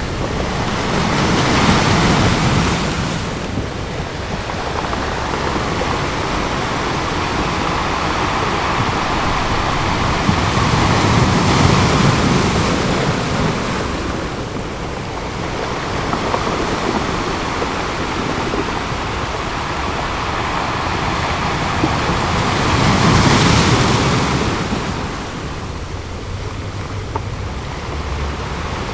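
Ocean surf breaking on a beach: a steady wash of waves that swells to three louder breaks, one near the start, one near the middle and one near the end, then recedes between them.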